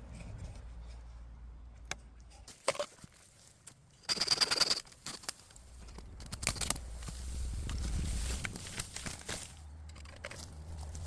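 Bamboo leaves and branches rustling and crackling as fallen bamboo is handled and cleared, with scattered snaps and a short, loud burst of rapid rustling about four seconds in.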